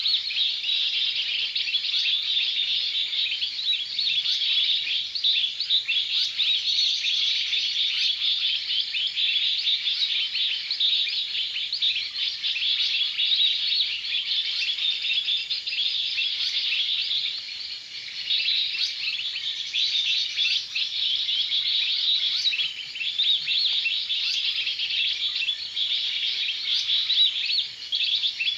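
Small birds chirping in a dense, rapid, unbroken chatter of high calls, dipping briefly about two-thirds of the way through.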